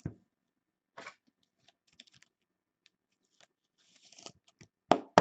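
Trading cards and their plastic holders being handled on a table: scattered small clicks, scrapes and rustles, with a louder click near the end.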